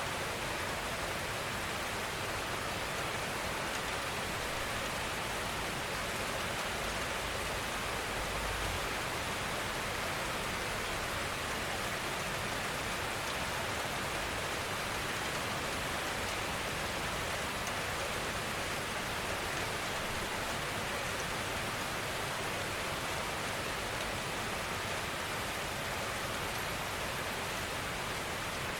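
Gentle rain falling steadily, an even hiss of rainfall without distinct drops or thunder.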